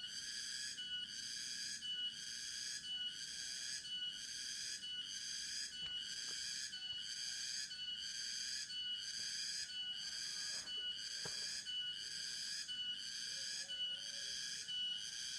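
A high-pitched, buzzing animal call from the forest, pulsing evenly about once a second.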